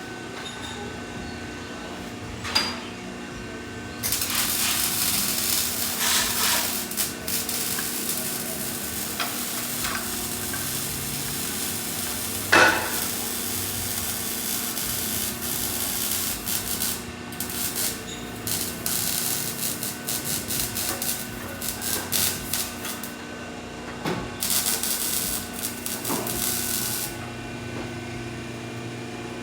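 Metalwork on a car's exhaust pipes in a shop: several spells of harsh hissing, sizzling noise lasting a few seconds each. Sharp metal clanks come about two and a half and twelve and a half seconds in, over a steady hum.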